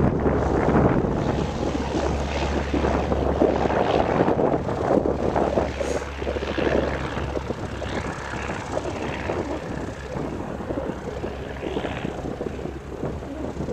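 Small propeller airplane's piston engine running, its sound slowly fading.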